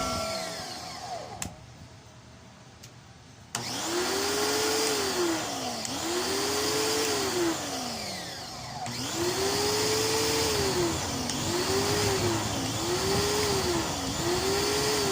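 Electric motor of a Kawasaki high-pressure washer switching on about three and a half seconds in, then running in repeated surges: its pitch rises, holds and falls back about every two seconds, six times over.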